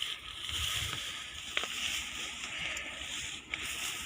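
Outdoor ambience: a steady hiss with wind rumbling on the microphone in gusts, and a few light clicks.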